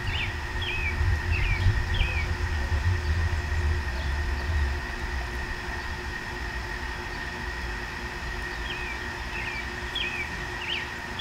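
Outdoor ambience: a songbird chirping in short repeated phrases at the start and again near the end. Beneath it a low rumble eases off about halfway through, with a faint steady hum.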